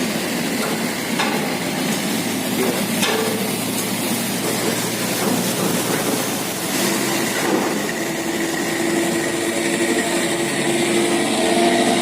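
Boat engines running as several wooden riverboats pass; about seven seconds in a steadier engine hum comes in and grows a little louder toward the end.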